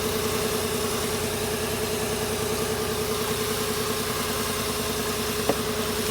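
Infiniti i30's V6 engine idling steadily, not yet at operating temperature. A single sharp click about five and a half seconds in.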